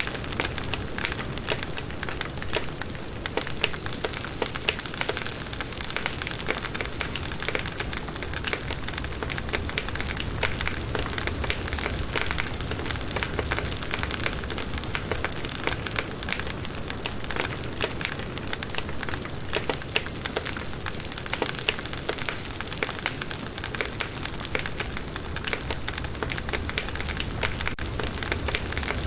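Firewood burning in a campfire, with dense, constant crackling and popping over a low rumble of the flames.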